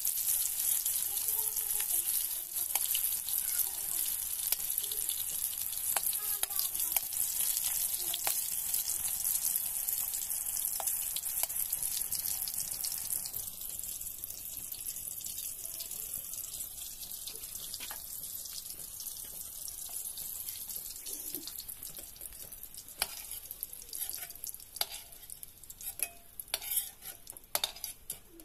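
Boiled eggs sizzling as they fry in hot oil in a steel kadai, with a steel ladle clinking and scraping against the pan as they are turned. The sizzle fades over the second half, leaving scattered clinks near the end.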